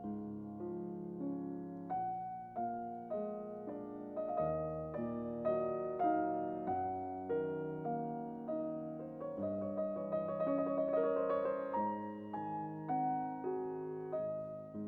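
Slow solo piano music: single notes and chords struck about twice a second, with a quicker run of notes about two-thirds of the way through.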